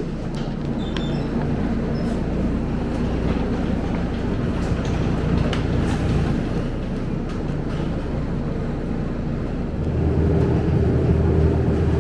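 Scania K270UB city bus heard from inside while running, its 9-litre five-cylinder diesel humming under steady noise, with occasional light rattles. About ten seconds in, the engine note deepens and grows louder.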